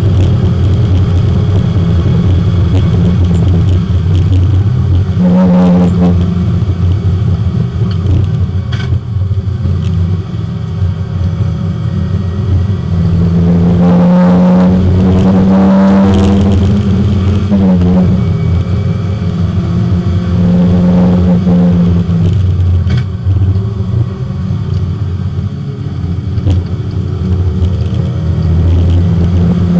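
Porsche 924 race car's four-cylinder engine heard from inside the cabin, accelerating hard on track: the revs climb and drop back several times through gear changes, with the longest climb in the middle, and two brief lifts off the throttle, about a third of the way in and again near the end.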